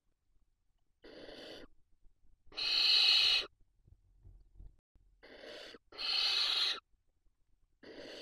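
Barn owl chicks making their hissing begging calls, five separate calls each under a second long, the loudest about three seconds in.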